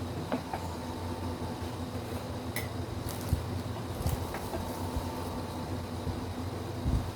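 A steady low background hum with a few light, sharp clicks scattered through it, typical of utensils knocking on a plate during a meal.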